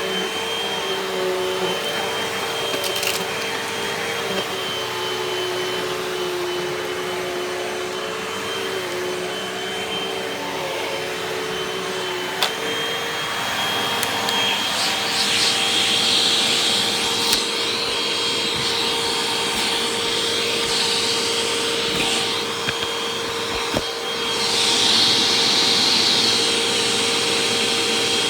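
A Hoover upright vacuum cleaner runs steadily with a motor hum and a thin high whine. Its rushing airflow swells louder about halfway through and again near the end, with a few small clicks along the way.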